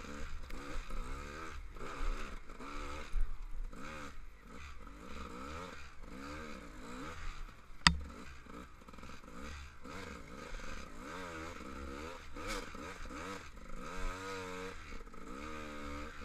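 GasGas EC 300 two-stroke single-cylinder enduro engine under way on rough ground, revs rising and falling as the throttle is opened and closed. A single sharp knock sounds about halfway through.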